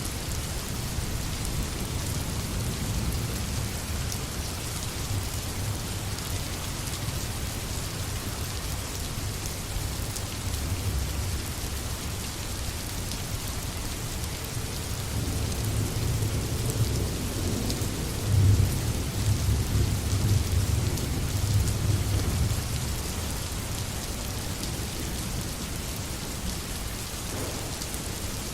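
Steady rain falling, with a low rumble of thunder that swells through the middle and fades again by about three-quarters of the way through.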